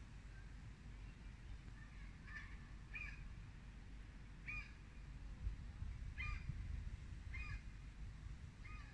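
A bird giving short calls, about six of them, spaced a second or two apart, over a steady low rumble.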